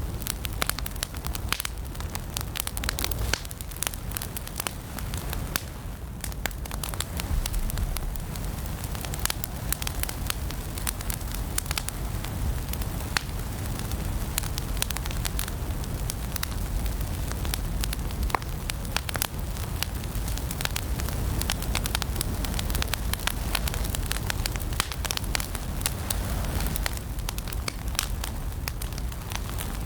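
Wood fire burning in a fireplace, crackling steadily: a constant stream of sharp, irregular pops and snaps over a low rumble of flame.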